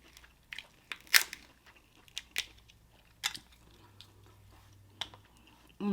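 Sharp, scattered cracks and crunches of crab leg shells being broken and bitten, about seven snaps spread over several seconds, the loudest about a second in.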